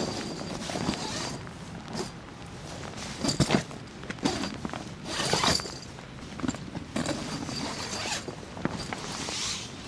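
Irregular handling noises: scattered knocks and clatter with rustling in between, the loudest cluster of knocks about three and a half seconds in.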